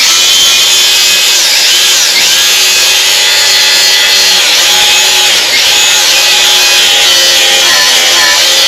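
Angle grinder with a flap disc grinding down welds on a sheet-steel body panel. The motor runs steadily under load with a wavering whine as the disc is pressed and moved across the metal.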